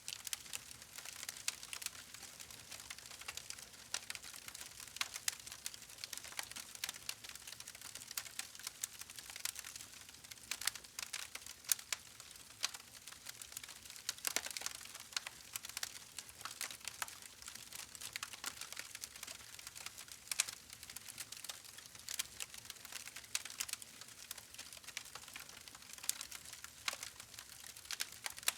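Wood campfire crackling: a constant hiss with many sharp, irregular pops and snaps, a few of them louder than the rest.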